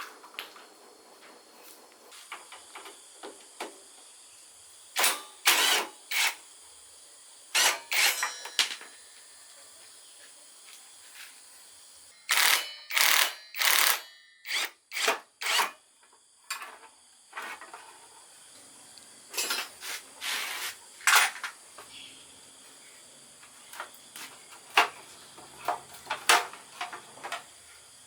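Intermittent hand work on motorcycle parts: short hissing bursts, some lasting up to about a second, with small clicks and knocks between them, loosely bunched around five to eight seconds in, again at twelve to sixteen seconds, and near the end.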